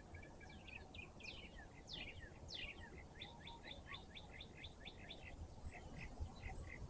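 A songbird singing: a few steep down-slurred whistled notes, then a run of short, evenly spaced notes, about four a second, that slow toward the end, over faint low background noise.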